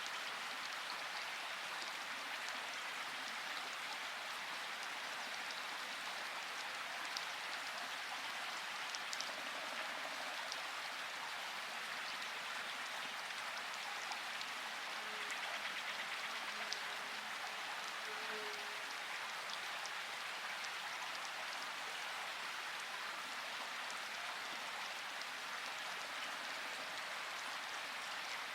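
Steady rain falling, an even hiss with a few louder individual drops ticking out now and then.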